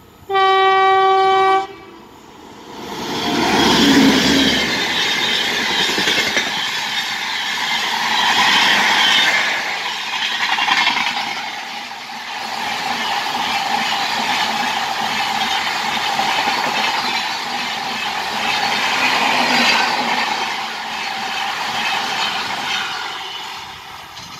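A WAP-7 electric locomotive's horn gives one long blast about half a second in. Then the locomotive and its coaches pass at speed: a loud, continuous rush of wheels on rail that swells and dips as the coaches go by, fading near the end as the last coach draws away.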